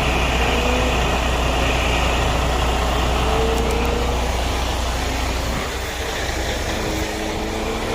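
Steady low rumble of a semi-truck's diesel engine idling, easing slightly about five seconds in.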